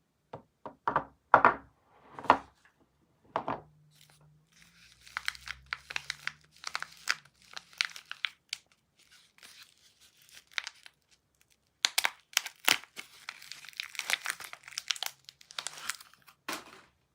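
Soap packaging being torn open and crinkled by hand. There are a few separate louder rips in the first few seconds, then long stretches of dense crinkling, with a short lull about eleven seconds in.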